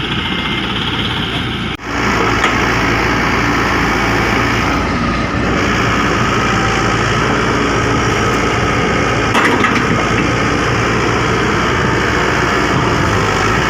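Heavy machinery's diesel engine running steadily under work, from an excavator or dump truck. The sound breaks off briefly about two seconds in and has a few faint knocks around the middle.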